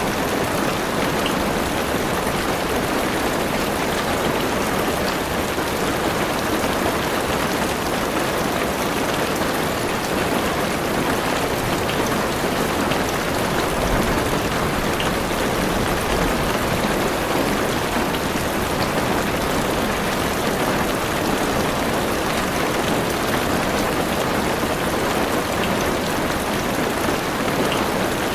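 Heavy rain on a car's roof and windows, heard from inside the car: a steady, even rush with a few separate drop ticks.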